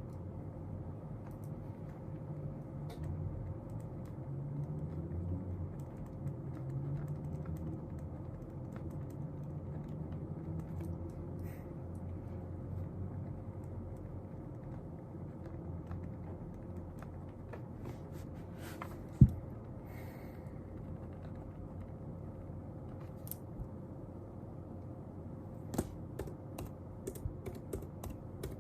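Steady low room noise with scattered light clicks and taps from desk work. A single sharp knock comes about nineteen seconds in, and a quick run of clicks near the end.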